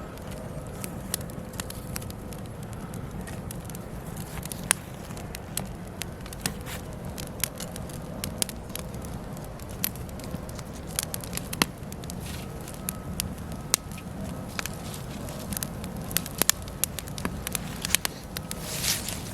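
Wood logs burning in a fireplace, crackling with irregular sharp pops over a steady low rumble of the flames, and a brief hiss near the end.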